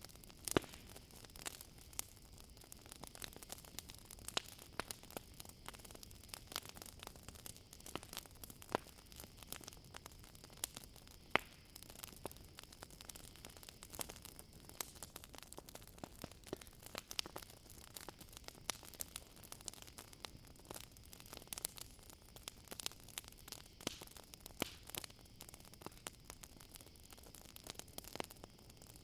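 Campfire crackling, with frequent irregular snaps and pops, one of the loudest about eleven seconds in. Under it a steady high-pitched insect trill, typical of crickets, runs without a break.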